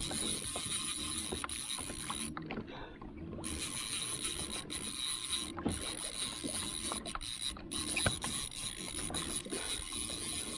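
Fishing reel being worked during the fight with a hooked salmon: irregular mechanical clicks and rattles over a steady hiss of water and wind.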